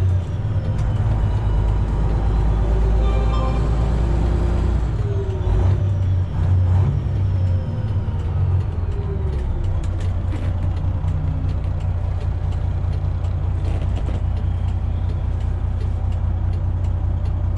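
Freightliner Classic XL semi truck's diesel engine running while driving, heard from inside the cab as a steady low drone that changes note about five seconds in.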